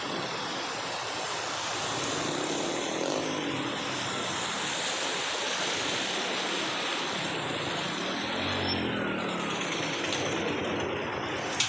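A steady rushing noise, with a motor vehicle passing about eight seconds in.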